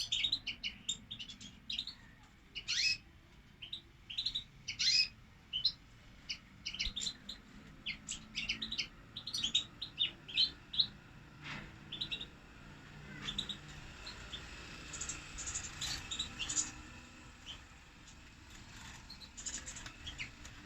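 Caged European goldfinches chirping and twittering: many short, quick high calls from several birds, thickest in the first half and sparser later on.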